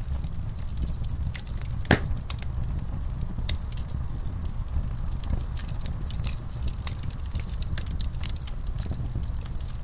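Fireplace fire crackling over a steady low rumble, with scattered small snaps and one louder pop about two seconds in.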